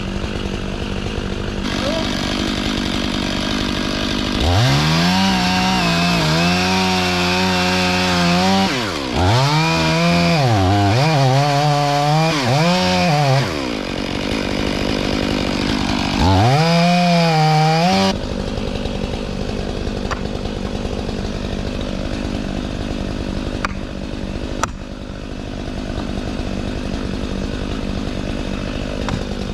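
Stihl 500i two-stroke chainsaw run up to full throttle three times, its pitch sagging and climbing back, with lower steady running in between and after. Two sharp knocks come near the end.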